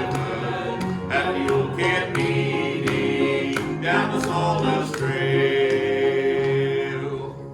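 Gospel trio singing the closing line of the chorus, ending on a long held note that stops near the end.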